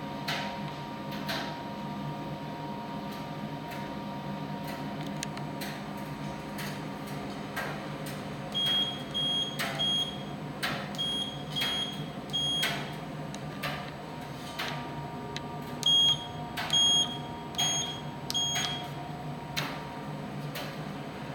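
Primus tumble dryer running with a steady hum, scattered clicks throughout, and three runs of short high electronic beeps, three or four beeps each, in the second half.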